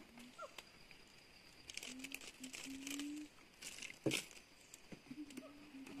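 Birds calling in the forest: short falling chirps and low, held whistled notes, over scattered clicks and rustles.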